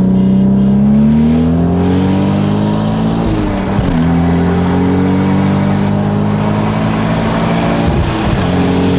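Turbocharged Toyota Supra engine under full-throttle acceleration, heard from inside the car: the revs climb steadily, drop at an upshift a little over three seconds in, climb again, and drop at a second upshift near the end.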